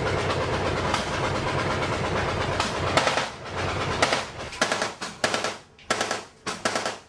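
Automatic machine-gun fire: a long unbroken string of rapid shots, then several shorter bursts with brief gaps in the last couple of seconds.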